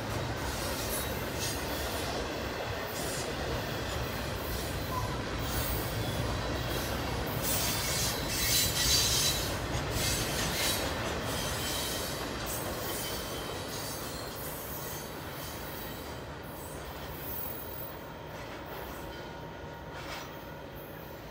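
Double-stack intermodal container train's well cars rolling past, steel wheels clattering on the rails with faint wheel squeal. Loudest about eight or nine seconds in, then fading as the end of the train passes and moves away.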